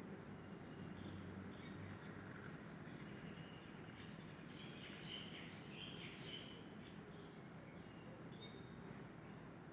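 Faint, short bird chirps, scattered and busiest around the middle, over a steady low hum.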